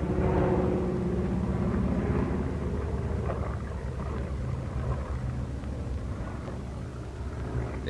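Steady drone of aircraft piston engines, with an even hiss over it, on an old film soundtrack.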